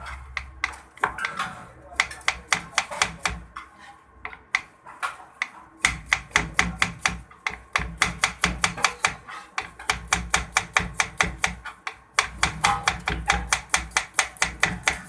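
Food being chopped in rapid, sharp strokes, about six a second, in runs broken by short pauses.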